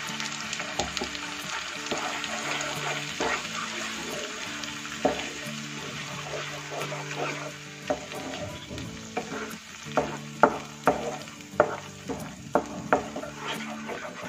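Ground spice-and-onion masala paste sizzling as it fries in hot mustard oil in a non-stick pan, stirred with a wooden spatula. From about eight seconds in, the spatula knocks and scrapes against the pan in a run of sharp strokes.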